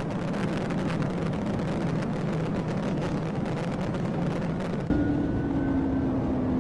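Pursuing patrol car at high speed: steady engine and road noise. About five seconds in it changes abruptly to a louder, steady engine drone.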